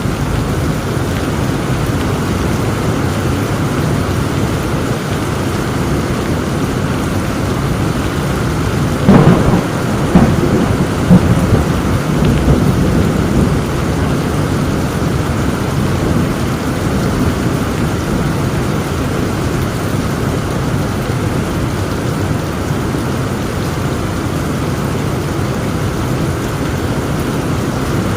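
Heavy rain falling steadily, with a sharp crack of thunder about nine seconds in that rolls on as rumbling for several seconds before fading back into the rain.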